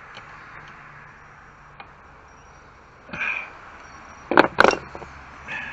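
Hand tools handled against the metal of a small circular saw: a few light clicks, a short scrape about three seconds in, then two loud sharp knocks a fraction of a second apart.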